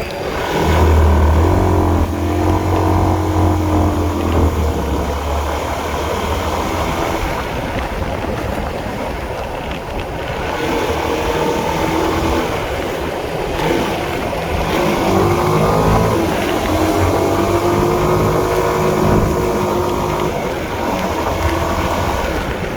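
Honda CB150R's single-cylinder engine running on the move, its pitch rising and falling repeatedly with throttle and gear changes, with a steady rush of noise underneath.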